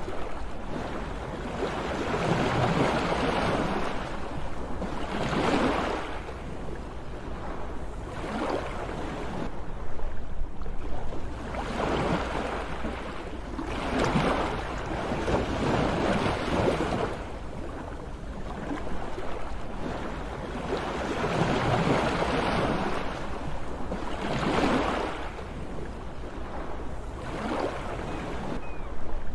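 Sea waves washing in and breaking, a rushing surge that swells and falls back every few seconds over a steady low rumble.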